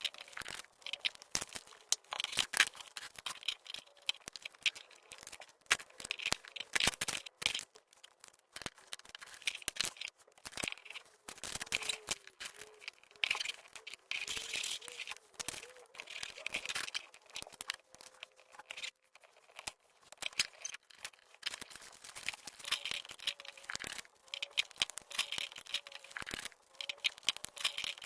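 Small plastic LEGO bricks being handled and pressed together: an irregular run of sharp clicks and rattles with rustling between them.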